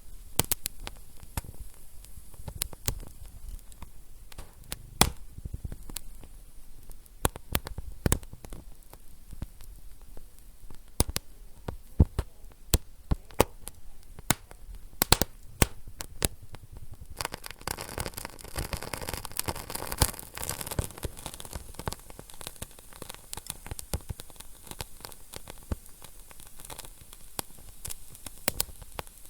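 Wood fire in a fireplace crackling, with many sharp pops at irregular intervals. A little over halfway through, the crackling becomes denser and busier, with a hissing quality.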